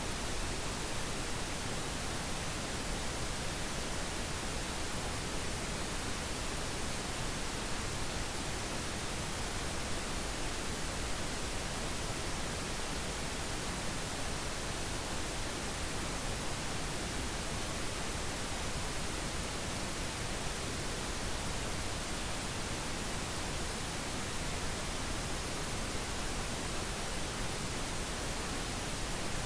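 Steady synthetic pink noise: an even, unchanging hiss spread across the whole range of pitch, with no events or variation.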